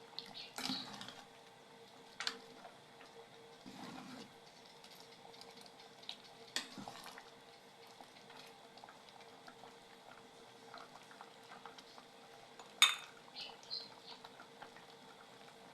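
A utensil clinking and scraping against a pot as a bamboo-shoot curry is stirred while it cooks. Scattered knocks come every few seconds, the loudest about 13 seconds in, over a faint steady hum.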